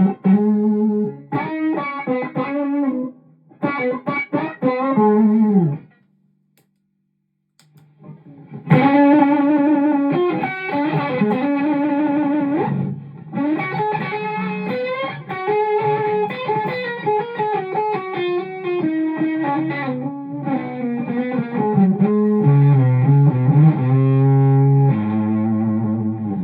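Electric guitar playing chord phrases through a pedalboard, with an Xotic Super Sweet boost feeding an ACS1 amp simulator, giving a lightly driven tone. The playing stops for about two seconds early on, then comes back with longer ringing chords and a lower riff near the end.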